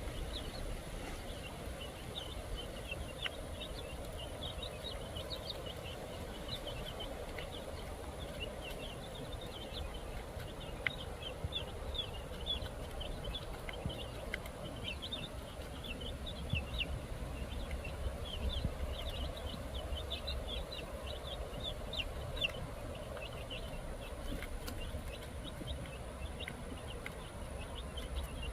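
Birds chirping: a dense, almost unbroken stream of short, high peeps over a low background rumble.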